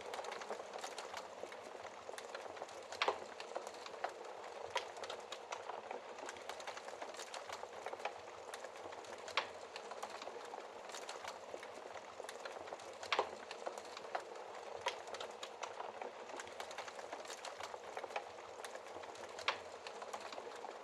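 Wood fire burning in a fireplace: a steady hiss with constant small crackles, and a louder sharp pop every few seconds.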